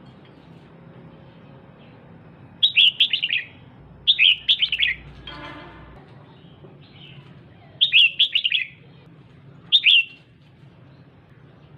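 Female red-whiskered bulbul calling: four bursts of quick, sharp chirps a few seconds apart, with a short buzzy note just after the second burst.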